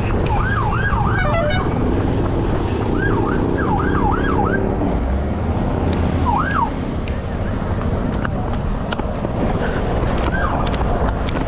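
A siren giving short rising-and-falling yelps in quick runs of three or four, then single yelps later, over steady road and engine noise.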